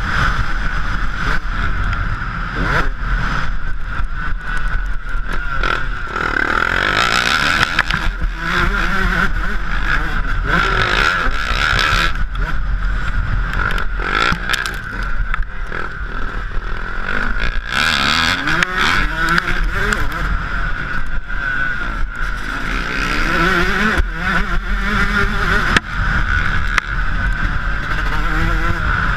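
Yamaha YZ125 two-stroke motocross engine revving up and down over and over as the bike is ridden, with steady wind buffeting on the onboard microphone.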